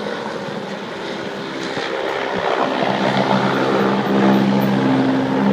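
Helicopter flying nearby, its engine and rotor making a steady droning hum that grows louder from about halfway through.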